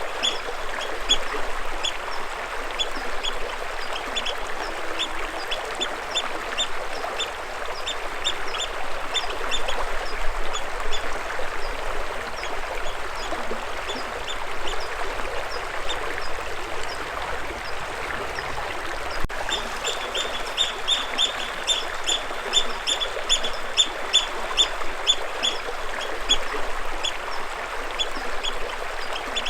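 Steady rush of running water, with a bird repeating short, high chirps in quick runs.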